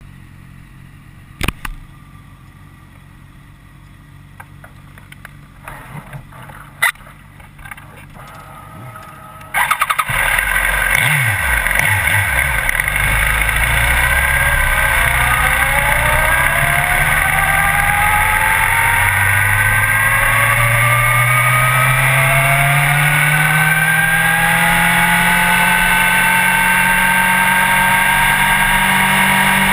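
A few clicks and knocks, then a motorcycle engine starts suddenly about a third of the way in and keeps running loudly, its pitch slowly rising.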